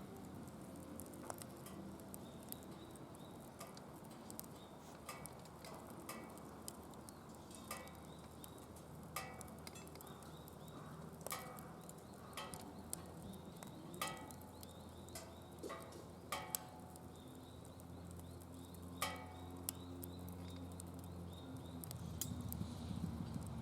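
Wood fire burning in a fire pit, crackling with sharp pops at irregular intervals over a low steady hum.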